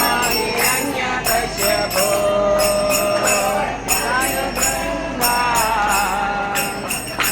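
Kirtan: voices singing a devotional chant over small hand cymbals (kartals) ringing in a steady beat.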